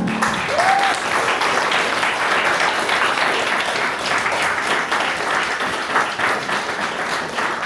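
Audience applauding after a song ends, with a brief whoop about a second in.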